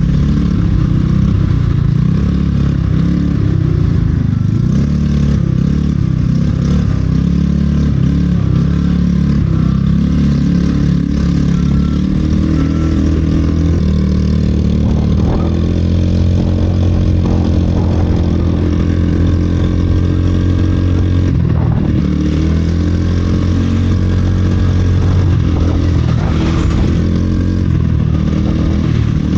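Vehicle engine running steadily while under way, its pitch shifting slightly with speed, with a few brief knocks.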